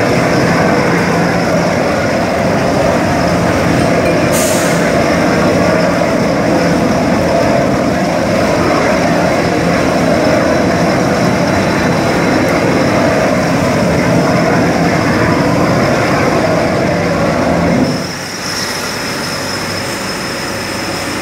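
Furnace heater running with a loud, steady roar and a low hum, which drops sharply to a quieter running sound near the end.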